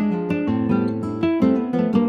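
Background music: acoustic guitar playing, plucked notes in quick succession.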